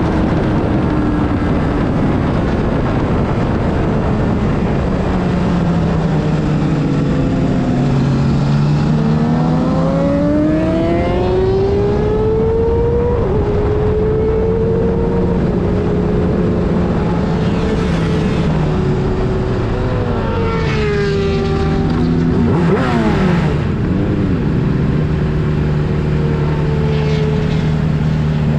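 Sportbike engine heard from on board over heavy wind rush. Its pitch falls a few seconds in, climbs steadily as it accelerates, then drops in quick steps through downshifts about two-thirds of the way through.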